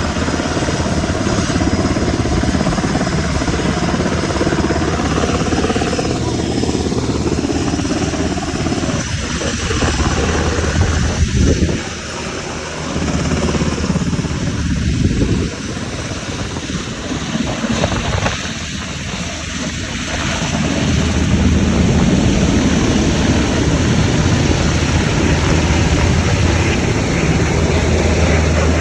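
Firefighting helicopter flying, a steady rotor drone with a turbine whine that sinks slightly in pitch over the first several seconds. The sound dips and swells a few times midway, then returns to full strength.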